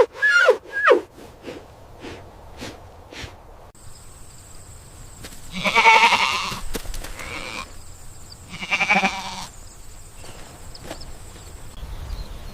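A goat bleating twice, two long quavering bleats a few seconds apart.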